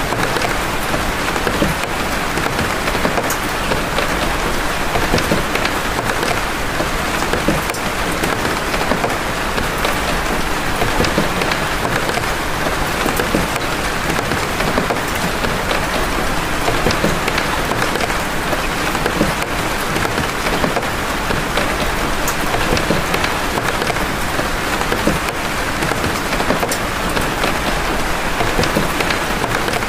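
Big raindrops falling steadily and densely, an even wash of countless small drop impacts with no break.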